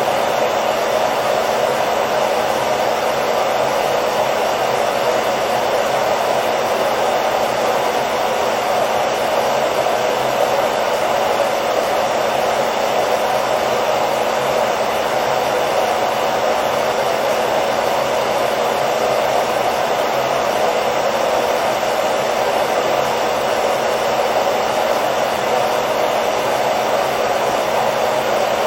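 Hair dryer running steadily, a constant blowing whoosh with a faint motor hum that never changes.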